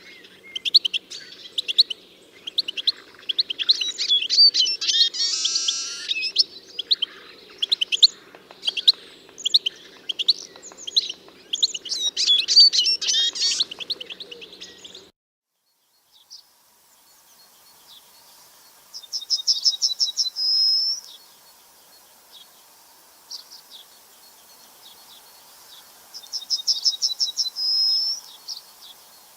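Birds chirping and singing, many quick high calls overlapping over a low steady hum. About halfway through the sound cuts off abruptly. After that a single bird gives a fast trill of rapidly repeated high notes ending in a down-slurred note, twice, several seconds apart.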